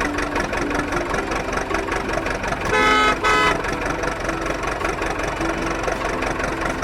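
Heavy diesel engines running steadily, with a vehicle horn sounding two short toots about three seconds in.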